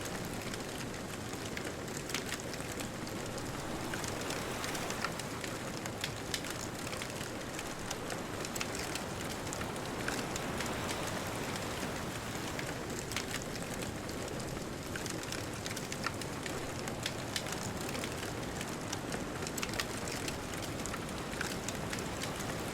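Bonfire crackling, with frequent sharp pops and snaps, over a steady wash of distant ocean surf.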